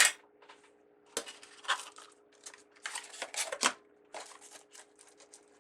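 Ribbon crinkling and rustling as it is handled and folded into bow loops, in irregular crackly bursts with a sharp one at the very start. A faint steady hum runs underneath.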